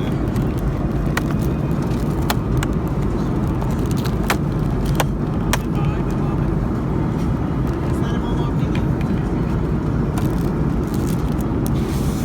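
Steady cabin rumble of an Airbus A310-304 airliner in cruise, with scattered light clicks and taps from the meal tray items being handled.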